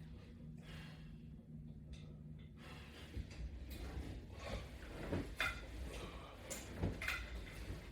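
Faint, irregular knocks and clicks of exercise equipment being worked during sit-ups, starting about three seconds in.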